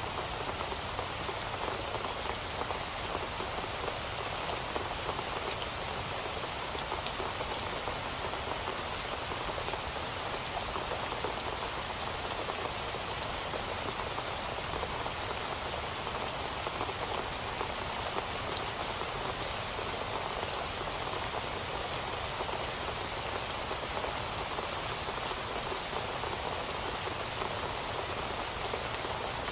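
Steady rain falling, a continuous hiss of many small drops pattering on a surface, with no thunder.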